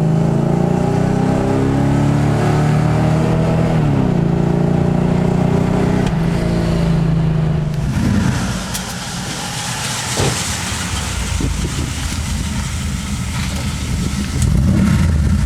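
Mercedes-Benz 450SEL 6.9's 6.9-litre V8, fitted with a custom exhaust, accelerating hard. Its pitch climbs, falls back at an upshift about four seconds in, and climbs again. About eight seconds in the throttle eases, and the engine note drops to a lower, noisier run that swells again near the end.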